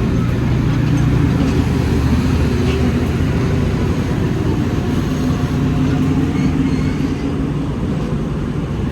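Passenger train car rolling along the track, heard from inside the coach: a steady low rumble of wheels on rail with a droning hum underneath.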